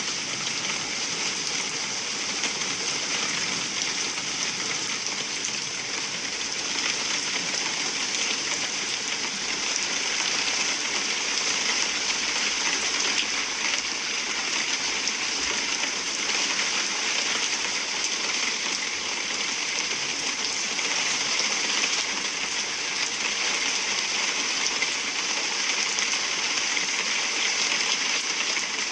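Heavy rain falling steadily, an even hiss of rain that neither builds nor fades.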